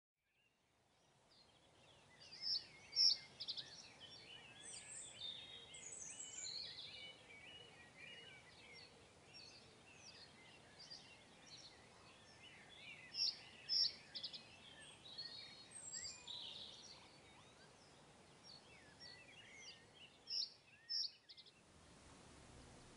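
Several wild birds singing and calling together, a busy mix of chirps and warbling trills. A pair of loud sharp calls stands out three times. The chorus fades in at the start and cuts off abruptly near the end.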